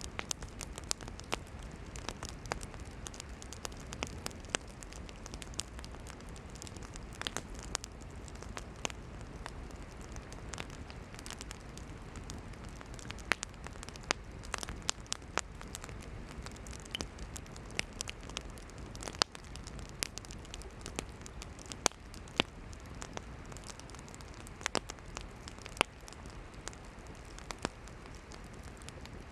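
Campfire of burning firewood crackling: irregular sharp pops and snaps, several a second at times, over a steady low rushing noise.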